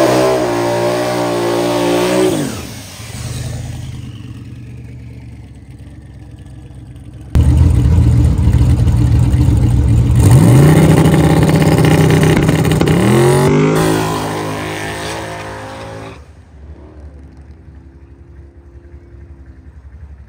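Turbocharged 5.3-litre LS V8 drag car at full throttle down the strip. The engine revs climb and then fall away. A second, louder run launches about seven seconds in, with its pitch climbing again twice as it shifts up, then fades into the distance. A faint steady engine hum remains near the end.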